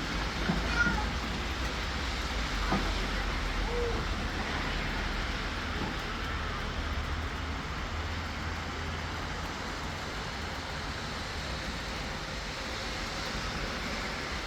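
Steady rain falling, with a low rumble of city traffic underneath. A few sharp ticks sound in the first three seconds.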